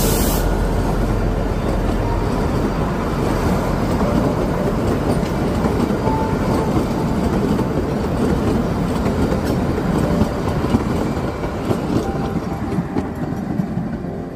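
Narrow-gauge Kalka–Shimla passenger coaches rolling past close by, their wheels rattling over the rail joints. The sound eases off slightly near the end as the last coach moves away.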